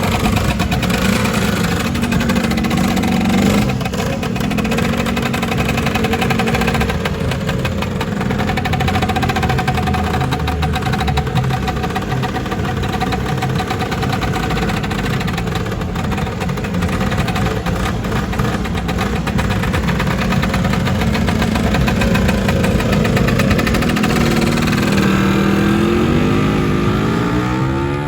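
Lambretta scooters' two-stroke engines running and revving as the scooters ride off, several engines overlapping, with engine pitch rising near the end.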